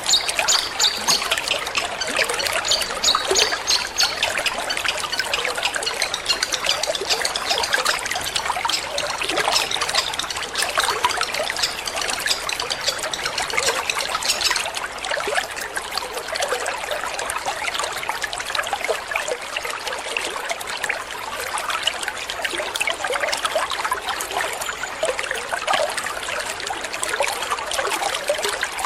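Water trickling and splashing steadily, a continuous gentle babble like a small fountain or stream.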